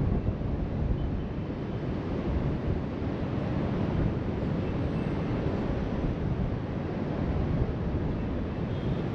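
Wind buffeting the camera microphone over a steady wash of ocean surf breaking on the shore below, with small swells in loudness and no distinct events.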